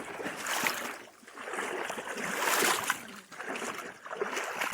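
Footsteps swishing through grass and brush, in swells of rustling every second or two with small snaps.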